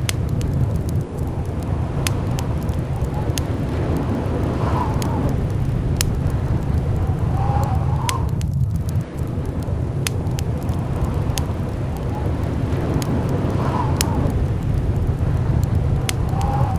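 Blizzard wind blowing steadily with a deep rumble, a faint whistle coming and going every four to five seconds, and scattered sharp ticks.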